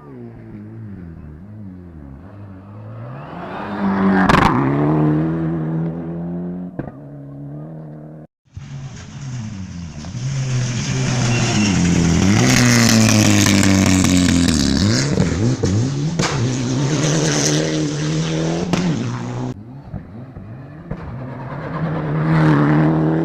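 Rally cars passing at speed, engines revving up and falling back through gear changes. Three passes are cut together: one peaking about four seconds in, a longer, louder one in the middle with a strong hiss over the engine, and another car coming up near the end.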